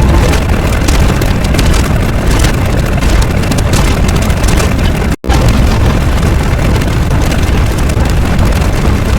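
Loud, steady rumbling noise with no clear pitch, heaviest in the low end. It cuts out for an instant just past halfway, then carries on as before.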